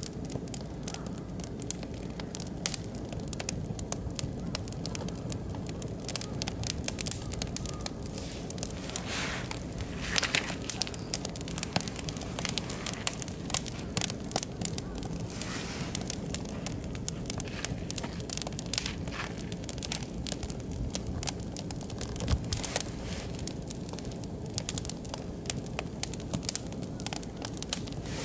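Oak and beech wood fire burning in a barbecue grill, crackling steadily with frequent sharp pops.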